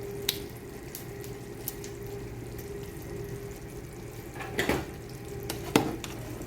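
Tomato stew boiling in a pot, a steady bubbling with scattered small pops, and two louder knocks with splashing about four and a half and six seconds in as pieces of chicken go into the pot.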